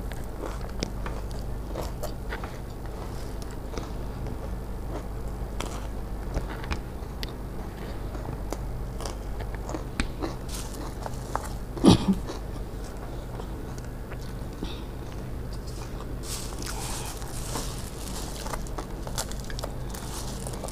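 Close-up chewing and crunching of puffed rice mixed with pea curry, with small clicks and scrapes of fingers mixing food on a metal plate. One sharp knock stands out about twelve seconds in.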